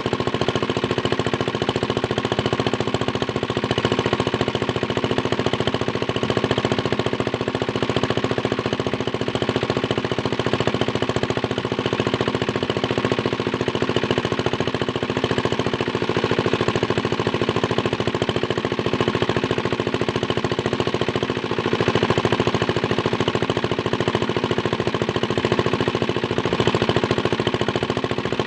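Small diesel engine running steadily and driving a water pump, with a rapid, even knocking of its firing strokes.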